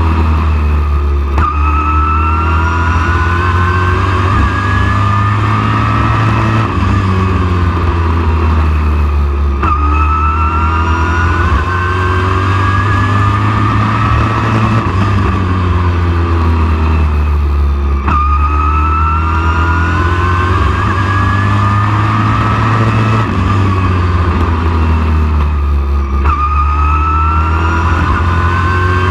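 Super truck race engine running hard, its pitch climbing steadily for several seconds, then dropping back, in a cycle that repeats about every eight seconds as the truck accelerates and lifts around the oval.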